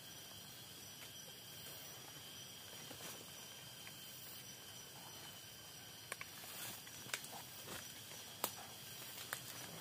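Quiet forest ambience: a steady high insect drone, with a few light clicks and rustles in the second half.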